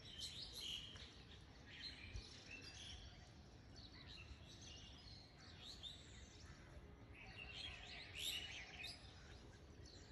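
Faint birds chirping, with short high twittering calls that come in a few clusters over otherwise near-silent room tone.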